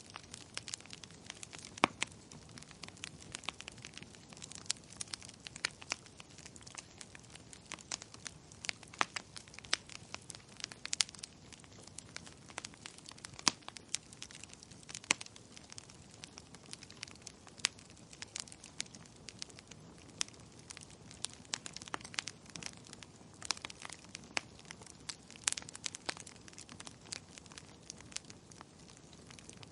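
Wood fire crackling: irregular sharp pops and snaps, several a second, over a soft low hiss of burning.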